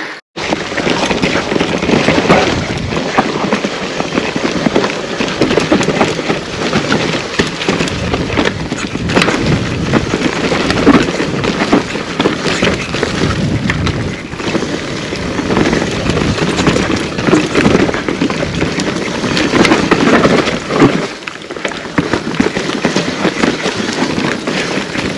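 Mountain bike riding down a rough forest trail: continuous dense crackling and rattling of tyres over dry leaves, dirt and roots, with the bike clattering over bumps.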